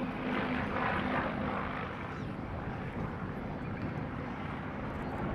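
Piston-engined propeller warbird, a P-51 Mustang with its V12 Merlin, flying a display some way off: a steady engine and propeller sound that fades a little over the first couple of seconds.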